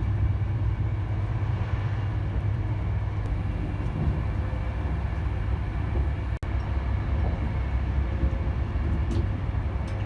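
Steady low rumble of a moving Virgin Trains West Coast train, heard from inside the carriage. The sound cuts out for an instant about six seconds in.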